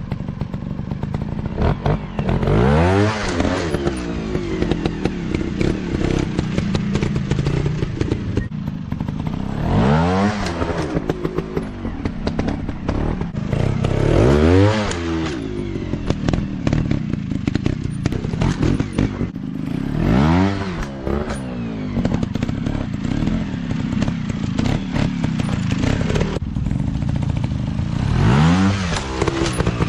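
Dirt bike engines running off-road, the pitch swelling up and falling back about five times as the throttle is opened and closed, with some clattering.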